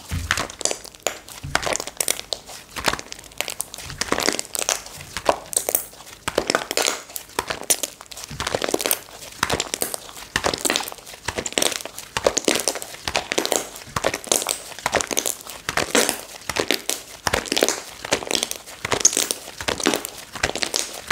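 Hands squishing and stretching slime, giving a continuous run of irregular sticky crackles and pops.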